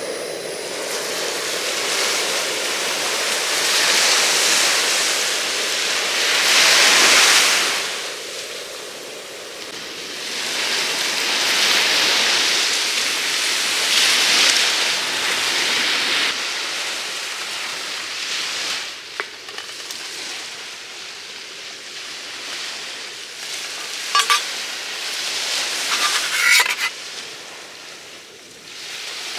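Sea waves washing onto a beach, the surf swelling and falling every few seconds. A few short sharp clicks come in the last third.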